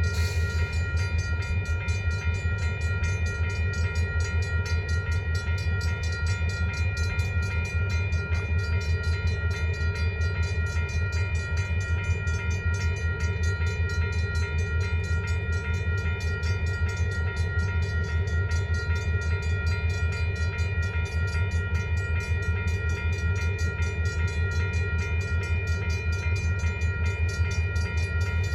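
Railroad crossing bell ringing steadily and rapidly over the low, steady drone of EMD SW1500 switcher locomotives' diesel engines running.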